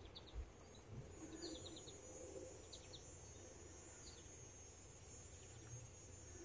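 Near silence outdoors, with a few faint, short high bird chirps in small groups over a faint steady high insect buzz.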